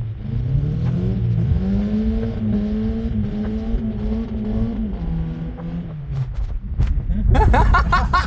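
Suzuki Escudo's engine accelerating: the revs climb over about two seconds, hold steady, then drop about five seconds in and fade away.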